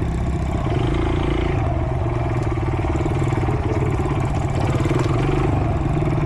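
Pit bike engine running steadily.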